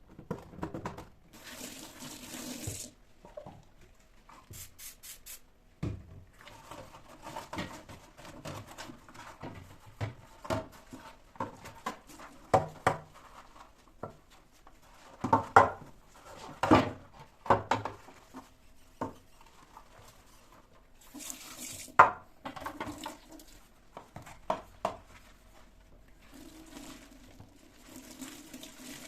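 Kitchen work sounds: dishes and utensils knocking and clinking, the sharpest knocks about halfway through, with a tap running in short spells near the start, about three-quarters through and near the end.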